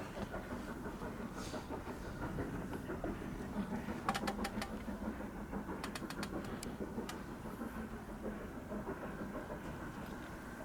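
Faint, steady rumble of a distant train that swells through the middle and fades, with a few sharp clicks about four and seven seconds in.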